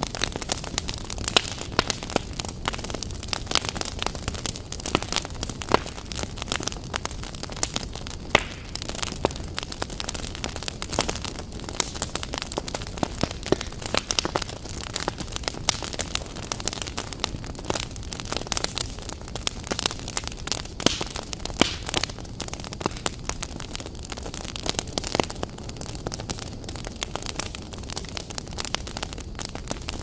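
Wood logs burning in a fireplace, crackling with frequent, irregular sharp pops and snaps over the steady low noise of the flames.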